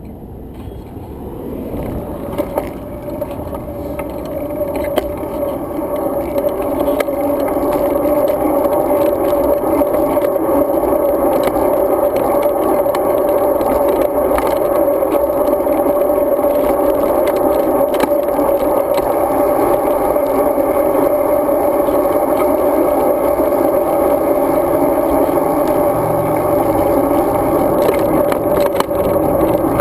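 Road bike rolling along: steady tyre and road noise with small rattles and clicks from the bike. It grows louder over the first eight seconds or so, then holds steady.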